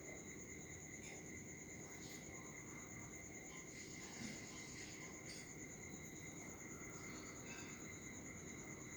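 Crickets trilling steadily: a continuous high, finely pulsing chirr, with a few faint short chirps scattered over it.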